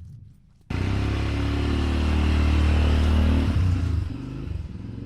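A motor vehicle's engine running steadily. It comes in abruptly about a second in and drops to a lower level after about three and a half seconds.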